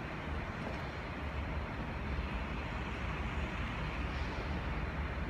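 Steady low rumble of background noise with some hiss and no distinct events, of the kind traffic and moving air make in an open parking deck.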